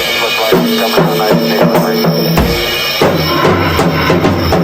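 Drum kit played as a solo, with quick bass drum and snare hits over sustained pitched tones.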